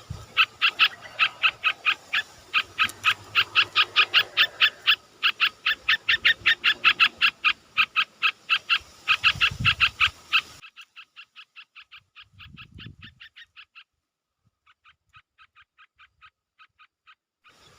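A rapid, even series of short chirps, about four or five a second, from a calling animal. About ten seconds in the level drops suddenly and the chirping goes on faintly, with a pause and a low thump.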